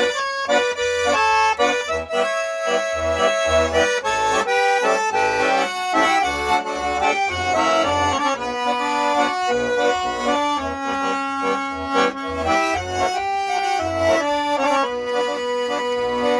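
Accordion playing an instrumental melody break of a song, with bass notes pulsing under a moving melodic line.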